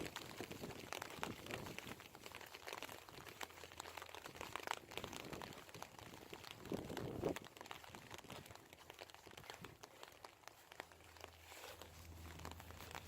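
Irregular close crackling and ticking of rain pattering on rain gear near the microphone, with rustling while walking and one louder rustle about seven seconds in.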